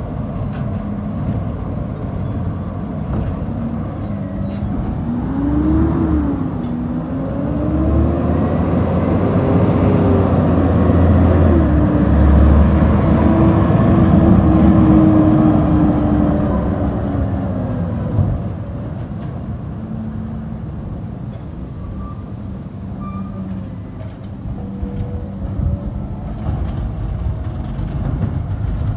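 Garbage truck engine running, speeding up about five seconds in, held at higher revs for roughly ten seconds, then dropping back to a steady idle.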